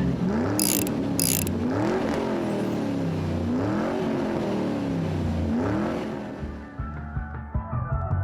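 A car engine revved four times over a steady idle, each rev rising and falling in pitch, with two short hisses about half a second and a second in; the sound fades out near the end.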